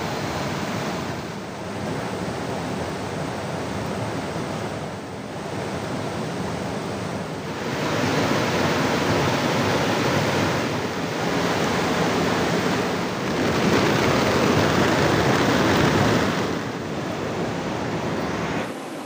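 Steady roar of water noise, as from heavy rain or a rushing river. It steps up and down abruptly in loudness several times and is loudest in the middle stretch.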